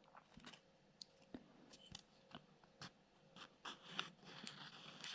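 Near silence with faint handling noise: scattered light clicks and, in the second half, a soft scraping rustle as a small circuit board and plastic parts are handled.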